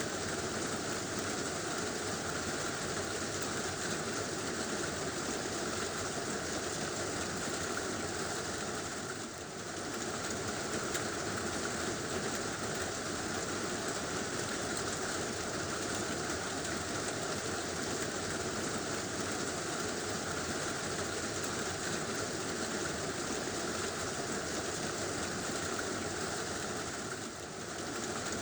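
Heavy rain falling steadily on a tin roof, a dense even hiss that eases briefly twice.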